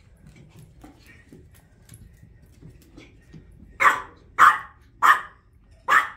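Four short, sharp barks, the first about four seconds in, then roughly one every two-thirds of a second.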